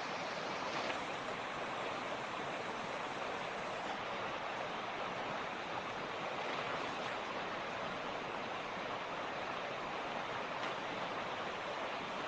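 Mountain creek: water rushing steadily over rocks, an even, unbroken sound.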